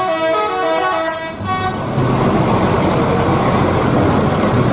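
Vehicle horn sounding a short run of tones, then a steady engine-and-road rumble from about two seconds in.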